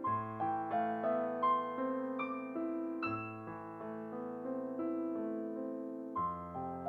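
Background piano music: a gentle melody of single struck notes over sustained bass notes, the harmony changing about three seconds in and again near the end.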